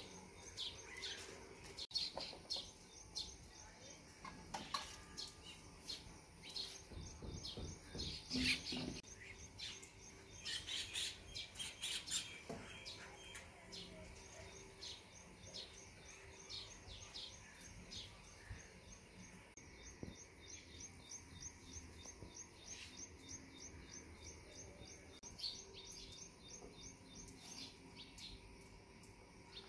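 Small birds chirping and twittering, with a quick, even run of repeated chirps through the second half. A few soft knocks and scrapes come about a third of the way in.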